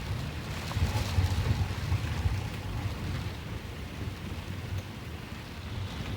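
Storm wind gusting with rain, the wind buffeting the microphone in a low rumble, strongest about a second in.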